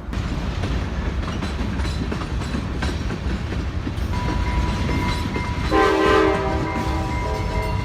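Train rumbling past with wheel clatter on the rails; its horn sounds once, a chord lasting about a second and a half, a little past halfway through.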